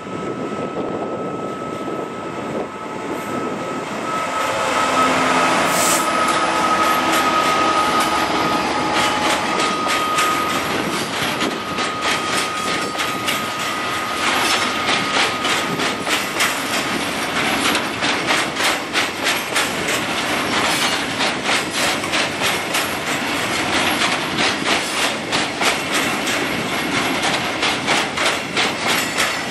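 A Class 66 diesel freight locomotive passing with a loaded log train, its engine loudest a few seconds in, with a steady high squeal from the train lasting through the first half. Then a long rake of loaded timber wagons rolls by, their wheels clattering rapidly and evenly over the rail joints.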